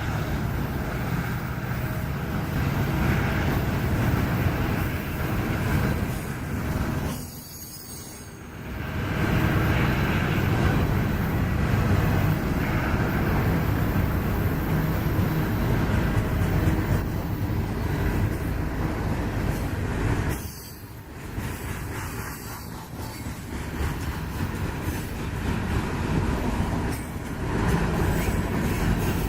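Freight cars of a long manifest train rolling past, a steady rumble of steel wheels on rail with some wheel squeal and clacking, briefly dropping in loudness twice, about 7 and 21 seconds in.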